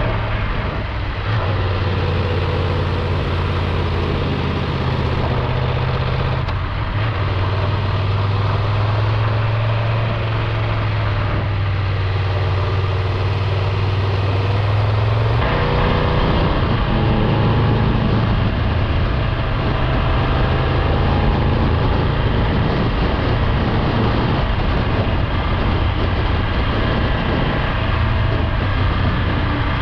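Triumph Tiger 1200 Rally Explorer's three-cylinder engine running steadily while under way, over wind and road noise. The engine note changes about halfway through.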